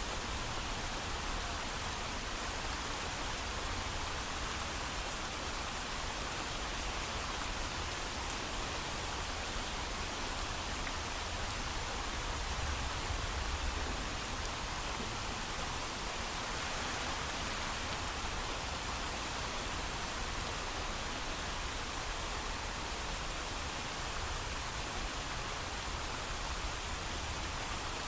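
Steady heavy rain falling, a dense even hiss with a low rumble underneath and no thunder.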